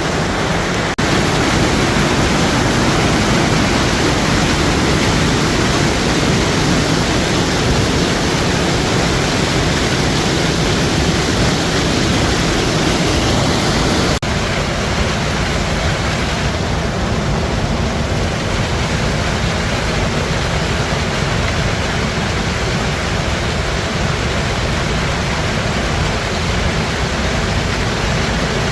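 Steady, loud rush of river water flowing.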